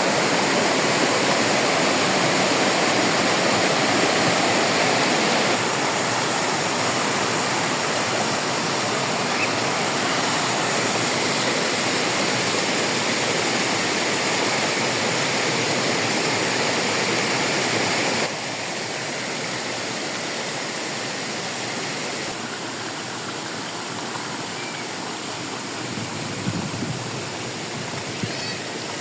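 Water rushing over a small waterfall, a steady hiss. It drops abruptly in loudness about six seconds in and again past the middle. There are a couple of faint knocks near the end.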